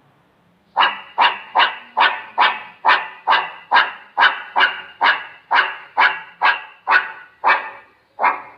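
A dog barking repeatedly in a steady rhythm, about two barks a second, starting about a second in.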